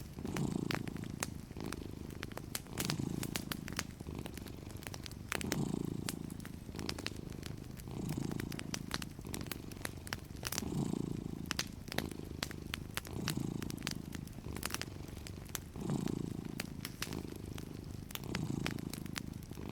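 A domestic cat purring steadily, the purr swelling and fading with each breath about once a second, over the scattered crackles and pops of a wood fire.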